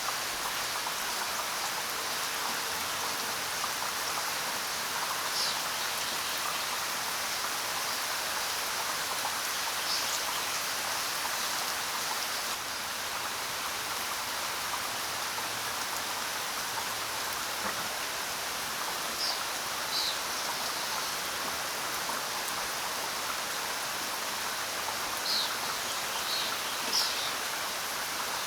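Steady rain falling, an even hiss of drops, with a few short high bird chirps scattered through it, most of them in the second half.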